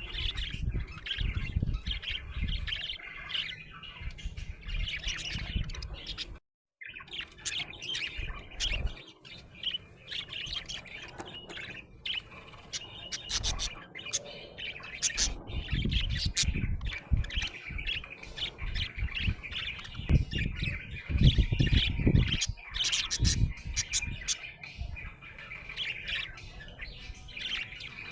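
Budgerigar chattering and chirping continuously in quick high chirps, with occasional low thuds. The sound cuts out completely for a moment about six seconds in.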